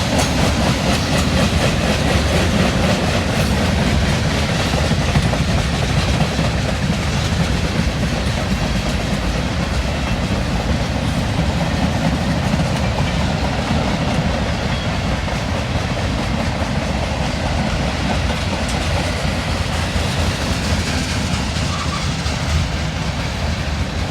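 Railroad cars of a passing train rolling steadily by, wheels clicking and clacking over the rail joints.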